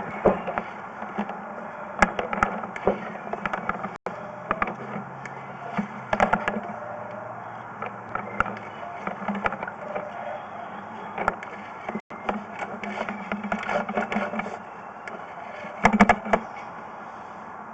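Irregular knocks, clicks and scraping from a sewer inspection camera's push cable being fed through a cleanout, over a steady low hum. A cluster of louder knocks comes near the end.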